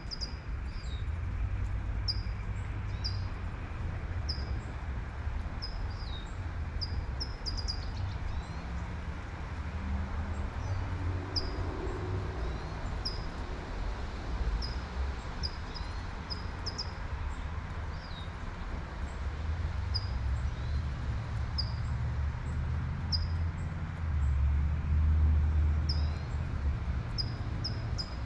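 A songbird chirping over and over in short, high, repeated notes over a faint hiss of light rain and a low rumble of traffic. The rumble swells near the end as a car goes by.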